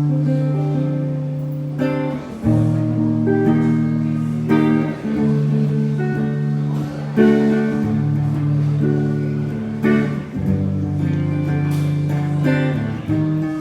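Instrumental song intro: a guitar playing sustained strummed chords, changing chord every two to three seconds.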